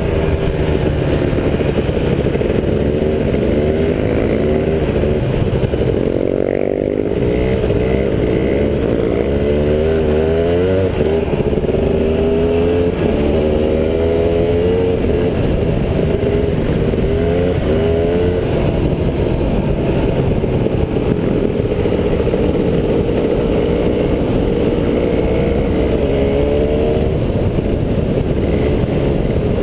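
Kawasaki KDX 220's two-stroke single-cylinder engine revving hard and easing off again and again while being ridden. Its pitch climbs in repeated sweeps every second or two.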